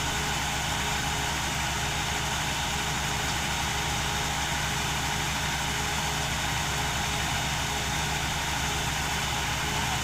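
Engine of a harvesting machine running steadily at an even speed, with a constant low hum.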